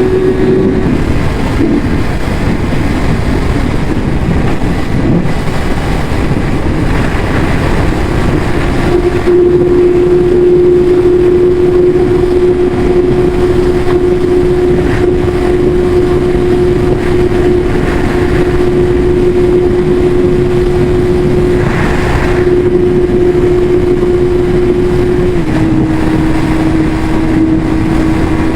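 Yamaha YZF-R6 inline-four sport-bike engine on its stock exhaust, holding a steady high-revving note under a dense rushing noise. The pitch drops slightly a few seconds before the end.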